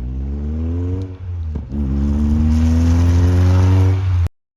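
A Seven-style kit car's engine accelerating hard. The pitch climbs, drops briefly at a gear change about a second and a half in, then climbs again as the car gets louder. The sound cuts off abruptly near the end.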